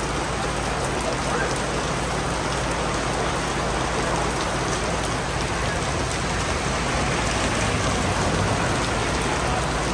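Rain shower falling steadily: an even, unbroken hiss of rain.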